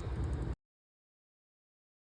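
A moment of faint background noise, then the sound cuts off into dead silence.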